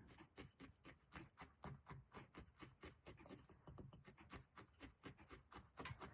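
Faint, rapid, even pokes of a barbed felting needle stabbing through wool roving into a foam block, about six or seven a second.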